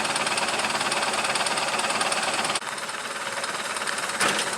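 A truck engine running steadily with a rapid clatter. The sound drops abruptly about two and a half seconds in, and a short knock comes near the end.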